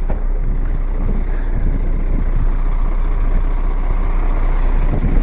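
Steady roar of blizzard wind buffeting the microphone, with a heavy truck's engine running underneath.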